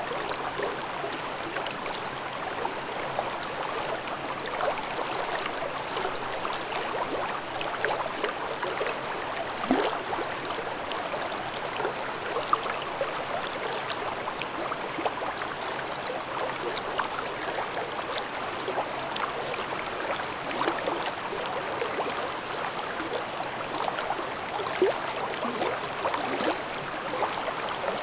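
Babbling mountain stream in a gorge: a steady rush of running water with many small splashes and gurgles.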